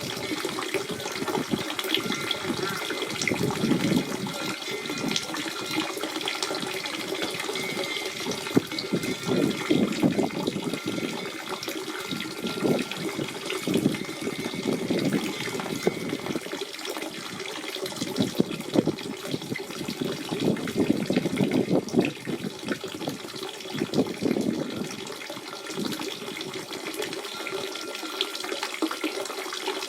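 Natural spring water running and splashing continuously, a steady gurgling flow with many small splashes.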